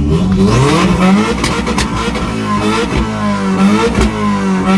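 2016 Subaru WRX's turbocharged flat-four revved hard and repeatedly through an open downpipe with no exhaust after it. The pitch climbs and drops several times, and sharp pops and cracks come between the revs.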